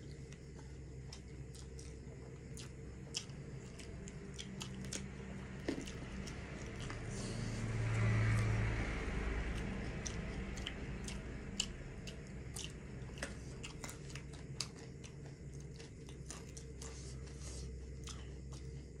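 Close-up eating sounds: chewing and biting chicken biryani, with many small wet mouth clicks, over a steady low hum. Around the middle a louder low rumble swells up and fades away over a few seconds.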